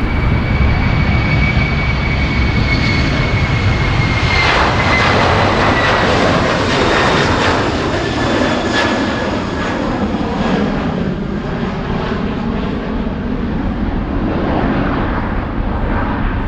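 Jet aircraft engine running loud: a broad rush of noise with a high, steady whine on top. The rush swells about four seconds in, then eases off gradually.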